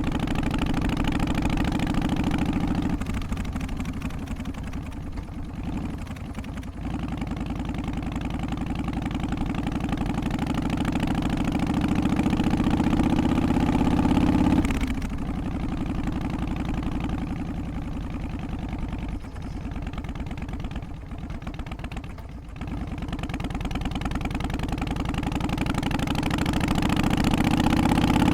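Harley-Davidson FXST Softail's Twin Cam 88 V-twin engine running under way, its pitch and loudness rising slowly as it gathers speed. It drops off sharply about fifteen seconds in, then climbs again near the end.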